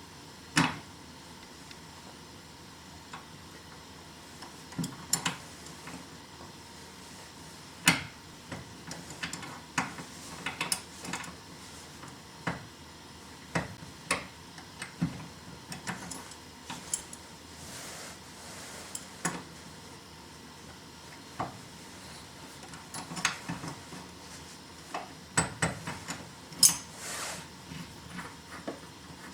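Scattered knocks, clicks and clatters of hand tools and hard fittings being handled during DIY removal work, coming irregularly, with a few louder knocks among them.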